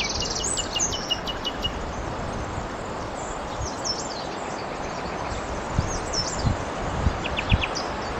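Small birds chirping with short sweeping notes and two quick trills, over a steady rushing background like wind in the trees. A few low thumps come in the last few seconds.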